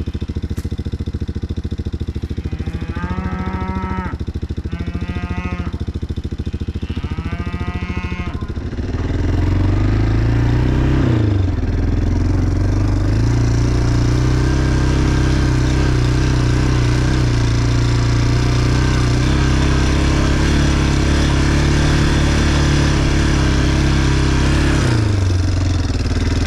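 A vehicle engine running steadily, then speeding up about nine seconds in and held at a higher, louder pitch, easing off near the end. Three drawn-out calls sound over the engine in the first eight seconds.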